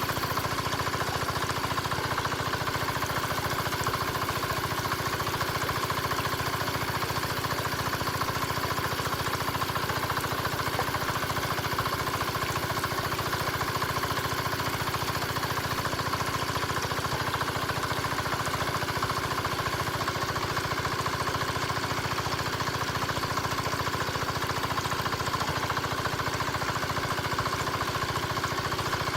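Mini diesel engine running steadily at idle, with a rapid, even beat and no change in speed.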